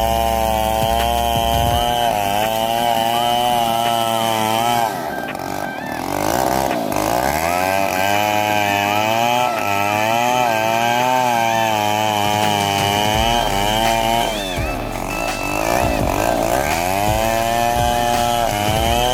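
Chainsaw running at high revs while cutting wood, its engine pitch wavering as the chain bites. The pitch drops twice and recovers, about a third of the way in and again about three-quarters through.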